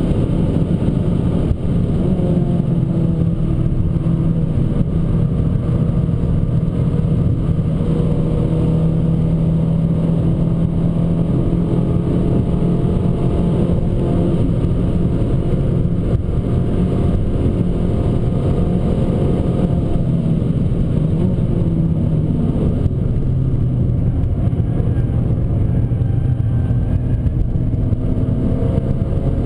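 Abarth 595 Competizione's turbocharged 1.4-litre four-cylinder engine running hard at speed, its pitch rising and falling again and again as it accelerates and eases off, over a steady rumble of road noise.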